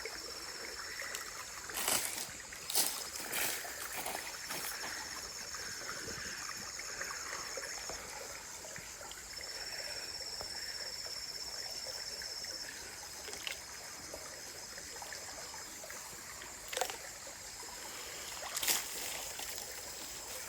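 Forest creek water trickling. A high, finely pulsed insect trill comes and goes in stretches of a few seconds. A few short splashes or knocks come around two to three seconds in and again near the end.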